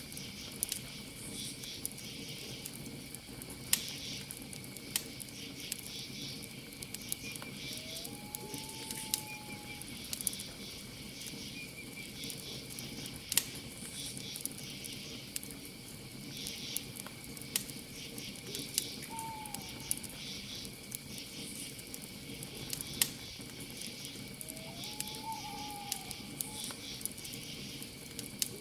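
Campfire crackling with sharp, scattered pops, under a steady high chirring of crickets. A bird, taken for an owl, gives three short gliding calls, about eight, nineteen and twenty-five seconds in.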